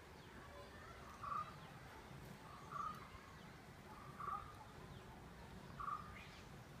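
A bird calling, a short single note repeated at an even pace about every second and a half, over faint outdoor background.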